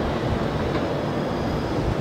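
A train passing on the line, a steady rumbling noise.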